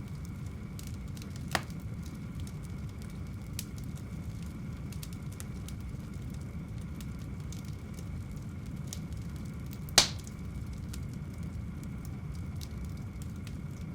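Wood fire in a fireplace burning with a steady low rumble and light crackling, with two louder pops, the sharper one near the end.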